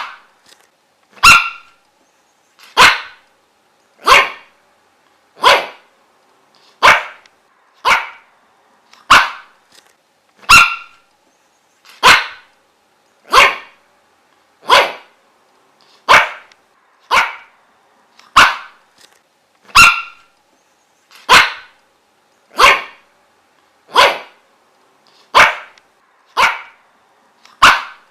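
A dog barking single, sharp barks at a steady pace, about twenty of them, one every second and a half or so.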